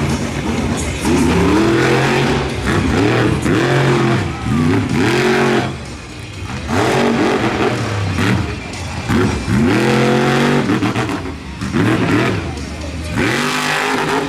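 Monster truck engine revving hard during a freestyle run, its pitch climbing and dropping back again and again, about every second or two.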